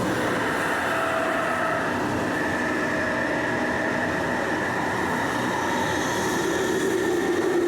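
London Underground 1996 Stock train running, heard from inside a carriage: its traction motors and inverters give several steady whining tones over wheel and track rumble, with a lower tone growing stronger near the end.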